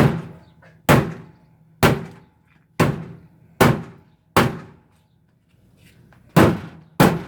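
Heavy blows battering a washing machine's panels and parts, eight sharp strikes each with a short ringing tail. They come about one a second, pause for nearly two seconds, then two more land near the end.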